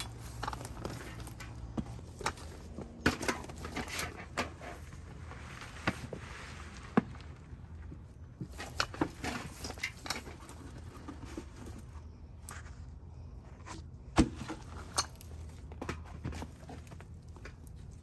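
Scattered knocks, thuds and rustling from hand work with soil in a garden bed, a load of soil being tipped in and moved about, with footsteps.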